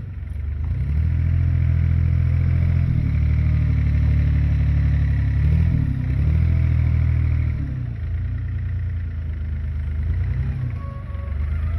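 Heavy diesel engine of construction machinery, an excavator or truck, running under changing load, its engine speed dipping and rising several times.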